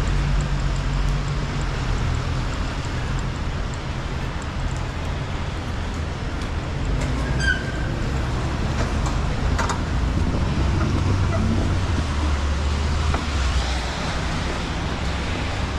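City street traffic: a steady low hum of vehicle engines over a constant hiss. There are a couple of brief sharp clicks about halfway through.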